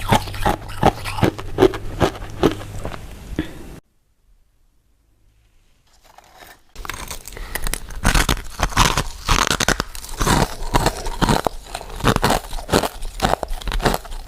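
Close-up eating sounds: biting and chewing soft, powder-coated mint sweets, a rapid run of sticky clicks and crunches. The sound drops out to near silence for about three seconds around four seconds in, then resumes, denser and louder.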